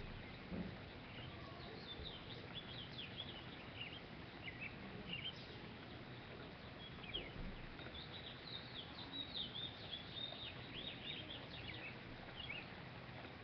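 Small songbirds chirping and twittering, a rapid run of short high calls that grows busiest a little past the middle, over a steady low background hiss.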